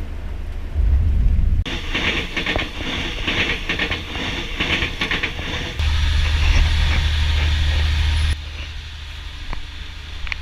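Passenger train running, heard from inside the carriage: a steady low rumble with the clatter of the wheels on the rails, changing abruptly a few times as short clips follow one another.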